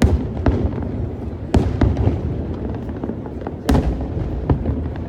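Fireworks display: shells bursting in about six sharp booms over a continuous low rumble of more distant bursts and echoes.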